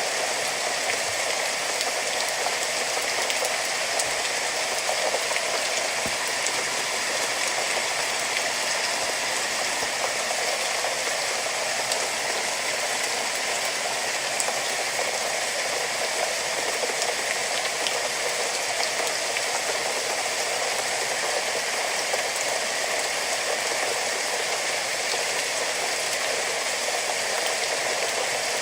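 Steady rain falling, an even unbroken hiss with faint scattered drop ticks.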